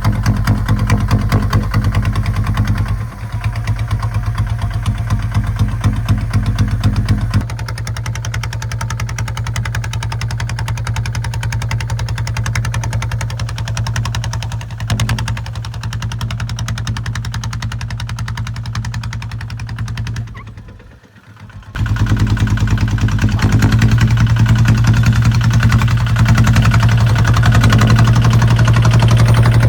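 Kubota ZT155 single-cylinder diesel engine of a walking tractor running steadily, a little quieter from about seven seconds in. The sound drops out for about a second about two-thirds of the way through, then the engine returns louder.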